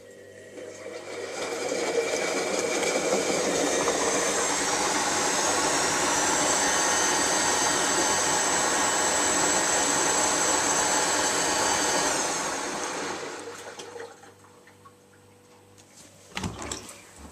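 Zanussi washing machine running with water swishing and a motor whine that climbs in pitch, then holds steady before winding down and dying away about 13 seconds in. A few light knocks follow near the end.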